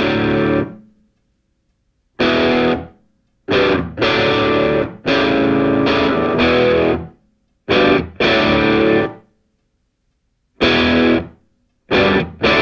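Background music: distorted electric guitar playing held chords in a stop-start pattern, each chord cut off sharply by a silent gap.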